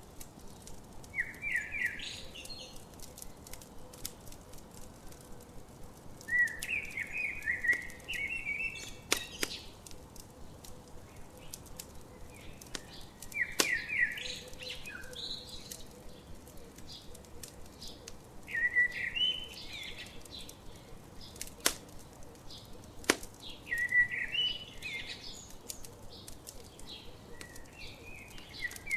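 A songbird repeats a short, quick song phrase about every five seconds over a crackling campfire, whose sharp pops and snaps come irregularly.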